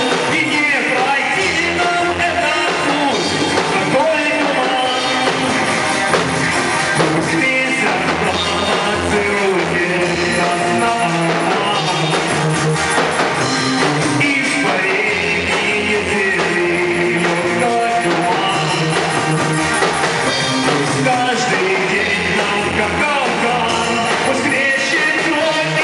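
Rock cover song: a band playing with a singing voice, loud and continuous.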